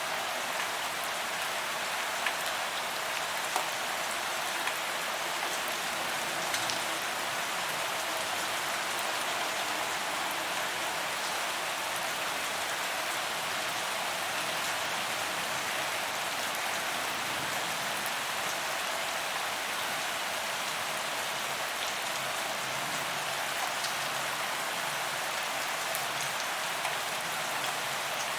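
Steady rain falling on paved ground, a constant hiss with scattered individual drops ticking.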